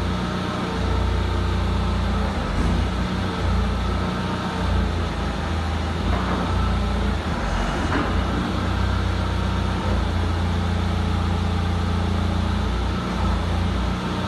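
Diesel engine of a Hitachi EX-75 UR3 excavator running steadily with a deep hum.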